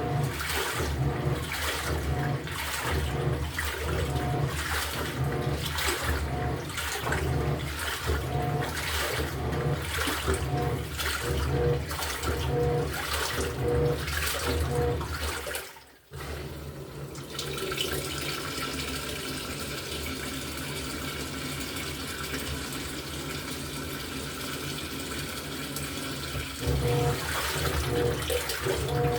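LG top-loading pulsator washing machine with water in the drum, its pulsator turning back and forth so the water swishes in an even rhythm. About halfway through it stops for a moment, then runs steadily for about ten seconds before the rhythmic back-and-forth swishing starts again near the end.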